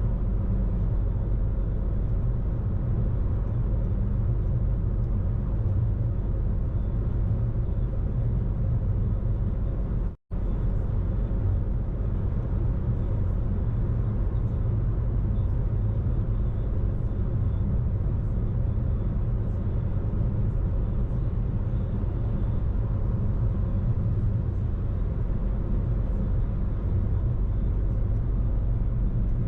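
Steady low rumble of a car being driven, engine and tyre noise, with no change in pace. The sound cuts out completely for a split second about ten seconds in, then carries on unchanged.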